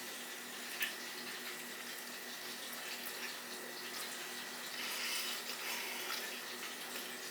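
Soft, wet chewing of a chili cheese dog close to the microphone, with a few faint mouth smacks over a steady hiss.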